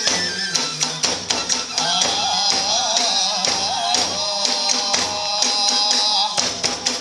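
Iwami kagura festival music: drums struck in a fast, driving rhythm under ringing hand cymbals, with a bamboo flute playing a wavering melody from about two seconds in until near the end.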